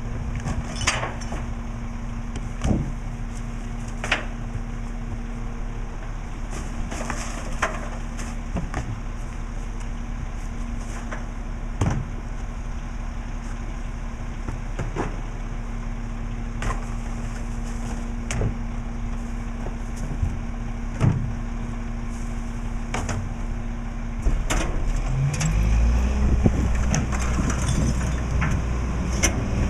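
Diesel engine of a Mack LE low-entry garbage truck idling steadily, with scattered sharp knocks and clanks. Near the end the engine speeds up and gets louder, with a rising whine.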